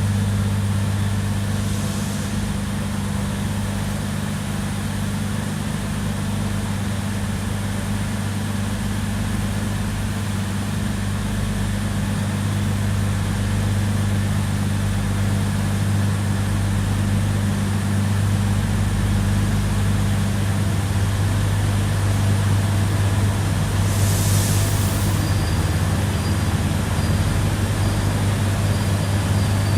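Steady low hum inside an airport train carriage, the railcar's machinery and air conditioning running, with a short hiss of air about 24 seconds in.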